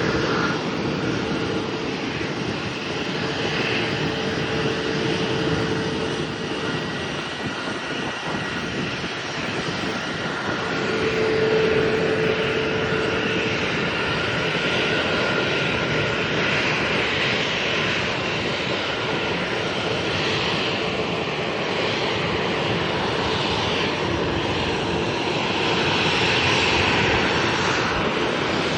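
Fixed-wing airliner's engines running with a steady roar, with held whining tones that come and go.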